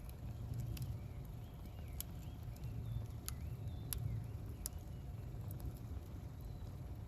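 Wood campfire burning: sharp crackles and pops about once a second over a low, steady rumble.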